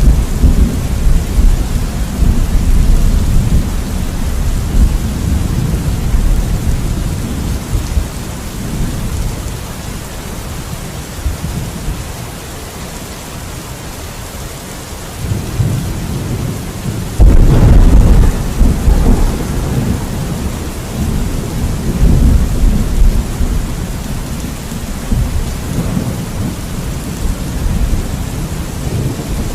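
Steady rain with rolling thunder. One rumble dies away over the first dozen seconds, then a new one builds and breaks into a sudden loud clap about seventeen seconds in, rumbling on to the end.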